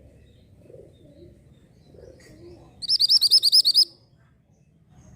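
An orange mantenan songbird singing one quick trill of about eight high, rising-and-falling whistled notes, lasting about a second, partway through.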